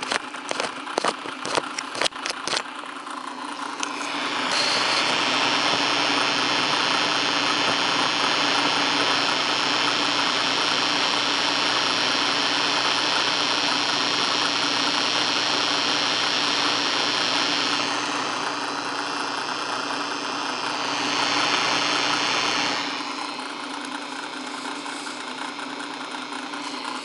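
1950s Masco reel-to-reel tape recorder playing back a test recording through its speaker: a steady hiss and hum with barely any recorded sound coming through, the sign of a failed record amplifier that the owner believes he blew. A few clicks open it, the hiss grows loud about four seconds in, and it drops back to a lower level near the end.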